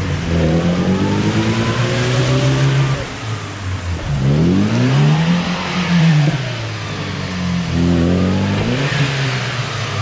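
UAZ off-road vehicle's engine revving hard, its pitch rising and falling back three times as it works through rough terrain.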